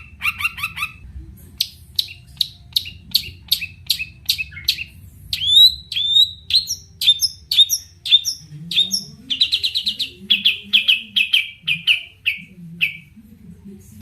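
Long-tailed shrike (cendet) singing a fast, varied string of short, sharp chirps and whistled notes, several a second. The song shifts from quick rattles to rising chirps to a rapid run of notes, over a faint low hum.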